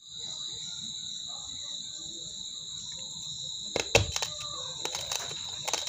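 Steady high-pitched chirring of crickets. From about two-thirds of the way in, sharp crunches of raw rice grains being bitten and chewed, the loudest just after.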